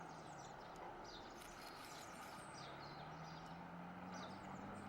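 Faint outdoor ambience: scattered short, high bird chirps over a faint low hum.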